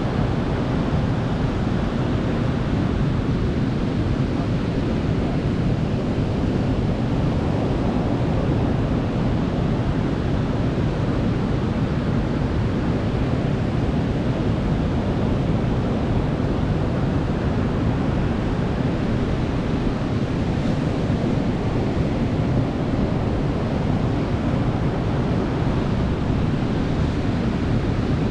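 Sea surf washing on a beach: a steady, even rush of noise with no single wave breaking out above the rest.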